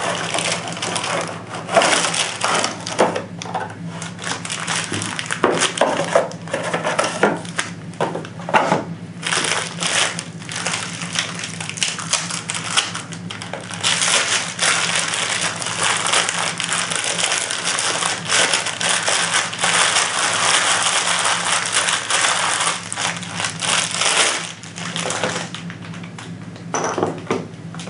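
A product box being unpacked by hand: cardboard and plastic packaging rustling and crinkling, with many small clicks and knocks as the parts are taken out.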